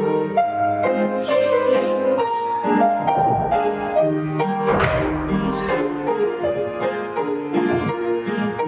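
Instrumental music led by piano, playing steadily throughout.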